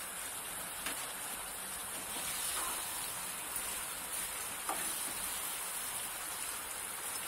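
Chicken pieces sizzling steadily as they are fried down in oil and spice paste in a pan, stirred with a wooden spatula that knocks lightly against the pan a few times.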